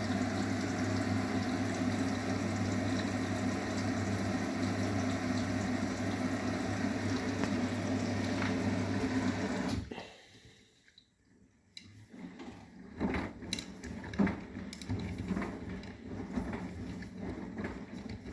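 Arçelik 9120M washing machine taking in water: a steady hum with water rushing into the drum, which cuts off abruptly about ten seconds in. After a brief hush, quieter scattered clicks and knocks follow.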